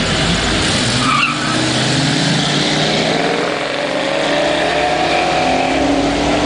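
Two Ford Mustang GT V8s, an older fox-body 5.0 and a newer GT, launching side by side from a standing start and accelerating hard away. Their engine notes climb in pitch, drop at a gearshift a little past the middle and climb again, with a short tire squeal about a second in.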